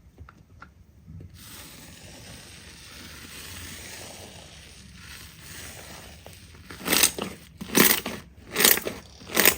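Slime being worked by hand: a soft, even hiss of the slime being stretched and rubbed, then about seven seconds in, four loud crunchy squeezes, a little under a second apart.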